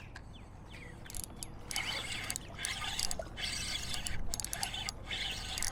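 Fishing reel cranking line in, a rapid mechanical clicking whir that comes in spurts from about a second and a half in.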